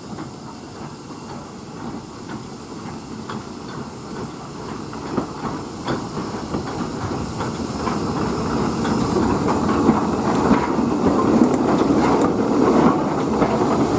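A train on the line drawing nearer, its running noise growing steadily louder, with scattered sharp clicks from the wheels and track.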